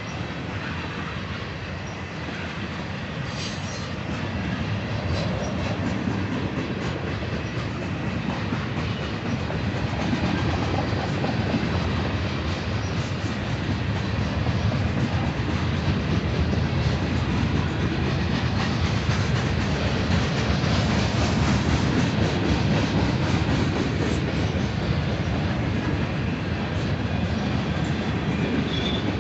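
Freight train cars rolling past: a steady rumble of steel wheels on rail with clicks over the joints, growing gradually louder.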